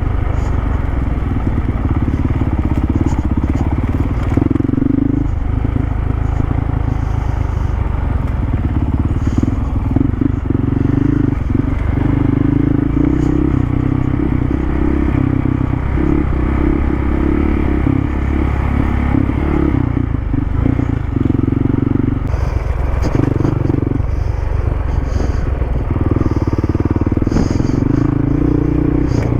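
Dual-sport motorcycle engine running while being ridden, dipping briefly several times as the throttle eases, over a heavy low rumble, with scattered light clatter.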